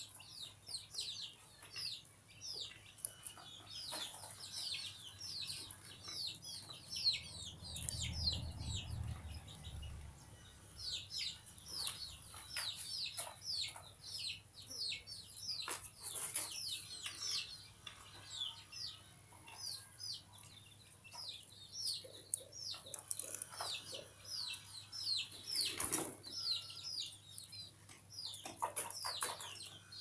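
Small birds chirping continuously, a stream of short, falling high-pitched chirps several times a second, with a few sharp clicks in between.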